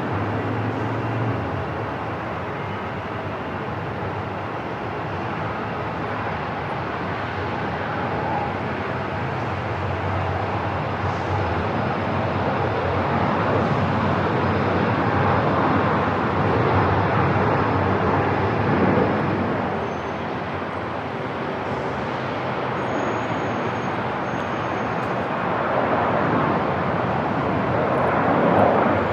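Airport ambience: a steady, noisy roar that swells a little around the middle and again near the end.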